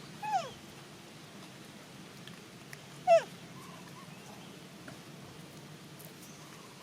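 A monkey gives two short squealing calls that drop sharply in pitch, one just after the start and a louder one about three seconds in.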